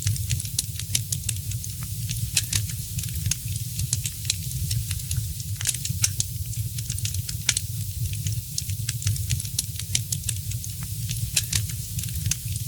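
Fireplace fire crackling, with frequent irregular sharp pops and snaps over a steady hiss and a low rumble of the flames.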